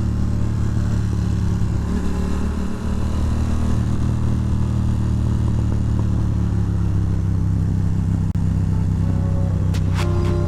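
Ducati Monster 620's air-cooled L-twin engine running steadily at an unchanging pitch. Music comes in just before the end.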